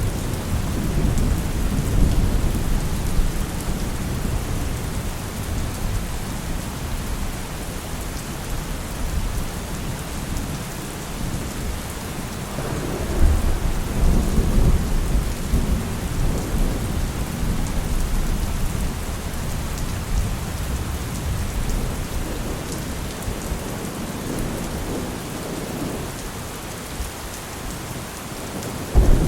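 Heavy rain falling steadily with low thunder rumbling continuously beneath it; the thunder swells near the start and again about halfway through.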